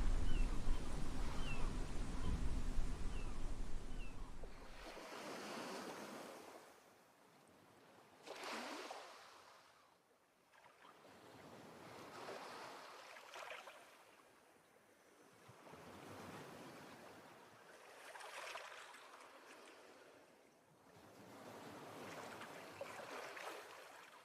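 Small sea waves washing against the shoreline, swelling and falling back every few seconds. For the first five seconds a loud low rumble sits under them and cuts off suddenly.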